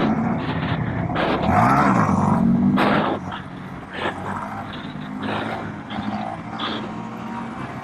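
Mini bike's small engine running as it is ridden, revving up about a second and a half in, then easing off and running quieter after about three seconds.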